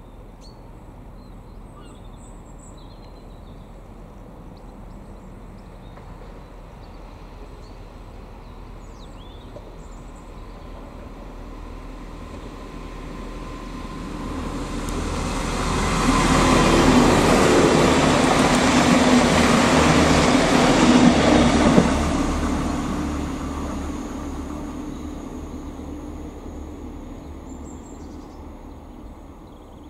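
Irish Rail 29000 class diesel multiple unit passing through a station without stopping. Its underfloor diesel engines and wheels on the rails grow louder over about fifteen seconds, peak for about six seconds with a steady engine drone, then fade away as it pulls off.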